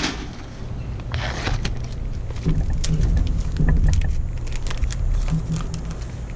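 Scattered sharp knocks and clicks from a homemade sharpened metal punch being worked through stingray meat on a small table, over a steady low rumble. The knocks cluster most thickly a few seconds in.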